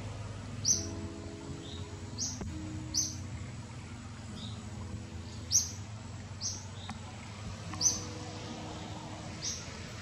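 A bird chirping: short, sharp, high chirps about every second or so, over a steady low background noise, with a few held low tones in between.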